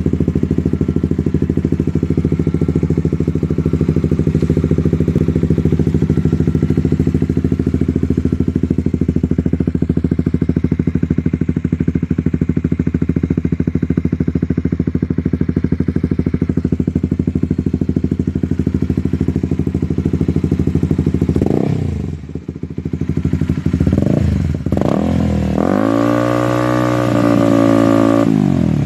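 Motorcycle engine breathing through an aftermarket Leovin racing exhaust, idling steadily, then blipped twice around 21 and 24 seconds and held at higher revs for about three seconds near the end before dropping back.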